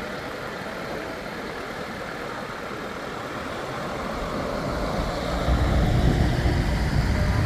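A truck's diesel engine drawing near and passing, with a deep low rumble that swells up loudly about five seconds in over steady road noise.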